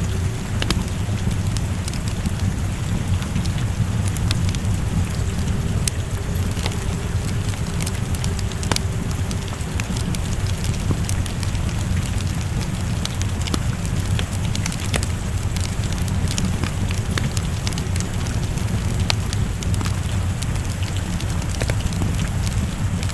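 Wood fire crackling, with sharp pops scattered irregularly, over steady rain and a low rumble.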